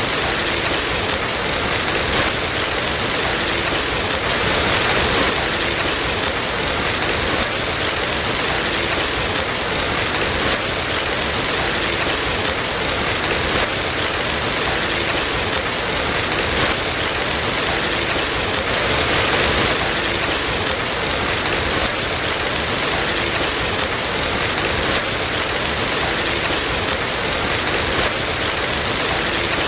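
Steady rain falling, an even, dense hiss that swells slightly a couple of times.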